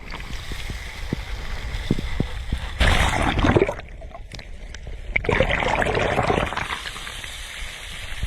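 Sea waves washing onto the shore, with two louder surges of breaking water about three and five seconds in.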